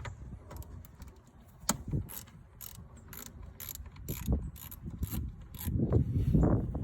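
Ratchet wrench clicking in regular strokes, about two a second, as it loosens a battery terminal nut to disconnect the battery. Louder low knocking and handling noise near the end.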